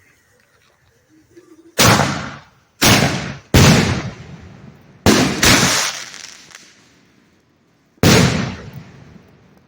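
Six loud bangs from aerial canister shell fireworks, the first about two seconds in and the last near the end, two of them in quick succession. Each bang fades away over about a second.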